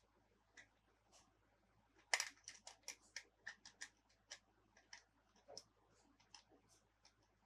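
Small plastic toy parts being handled: a faint run of light clicks and taps, coming thick and fast from about two seconds in.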